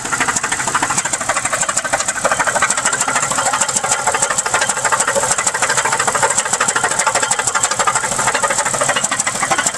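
2001 Pontiac Grand Prix GTP's supercharged 3.8-litre V6 running roughly at idle with a fast, steady knocking and rattle, the sound of a badly damaged engine that the owner puts down to a bad piston.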